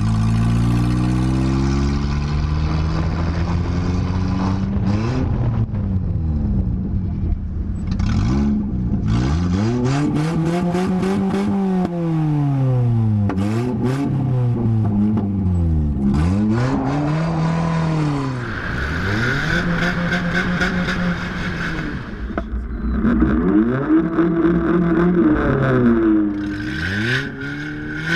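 Volkswagen Polo's engine and loud exhaust revving hard and dropping back over and over, the pitch climbing and falling every few seconds as the car is driven.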